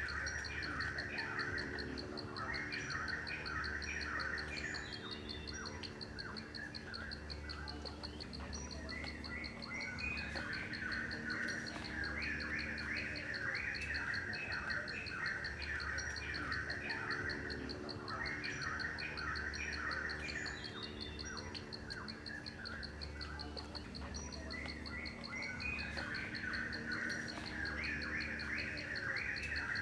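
Birds chirping over a steady, fast-pulsing insect trill. The same stretch of birdsong repeats about every eight seconds, as in a looped nature-ambience track.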